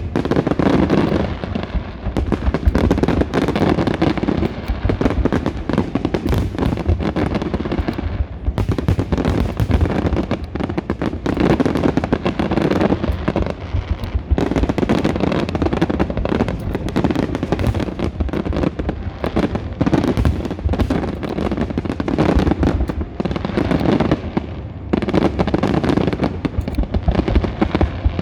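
Fireworks display: a dense, continuous barrage of shells bursting, with crackling and booms close by, pausing only briefly between volleys.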